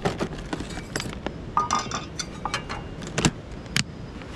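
Scattered light clinks and clicks of small hard objects being handled, a few with a brief ring, over the steady rush of a creek.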